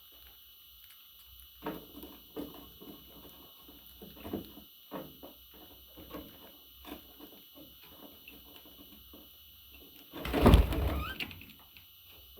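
A pet parrot making soft scattered clicks and short chirps, then a loud rustling burst lasting about a second near the end.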